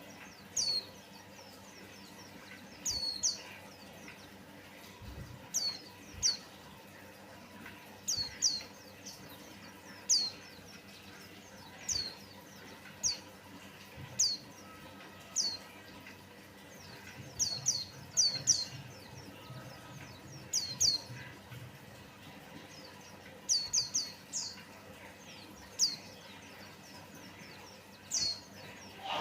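A white-eye calling: short, high, sweeping chirps, singly and in quick clusters of two to four, repeated every second or two over a faint steady hum.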